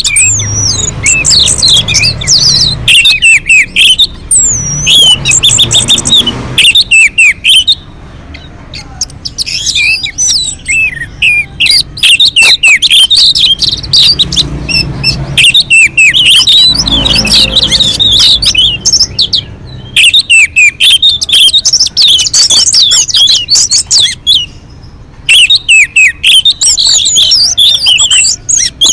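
Orange-headed thrush singing a fast, varied song of chirps, trills and whistled glides, run together with only a few short pauses.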